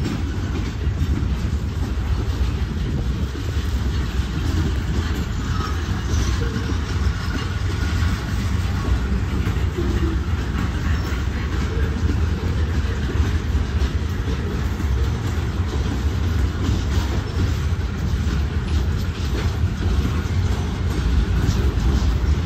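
Freight train cars rolling past at close range: a steady, heavy rumble with the clatter of wheels over rail joints.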